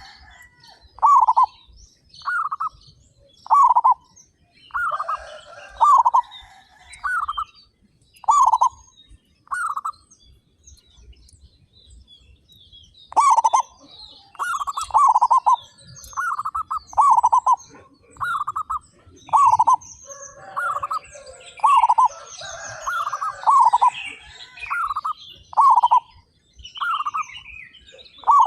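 Zebra doves (perkutut) cooing: short, repeated coo notes in a steady run, with a pause of about three seconds partway through. In the second half several birds call over one another.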